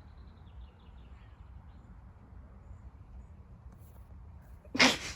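Quiet outdoor ambience: a faint low rumble and hiss with a few faint high ticks, broken about a second before the end by one short rush of noise.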